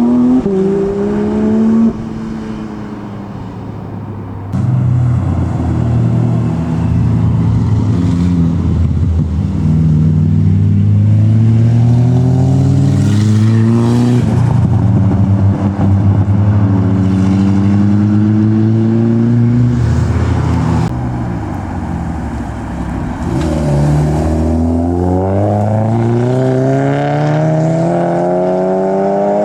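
Modified cars' engines revving and accelerating hard, several cars in turn, the engine note climbing in pitch again and again. The sound changes abruptly a couple of times early on.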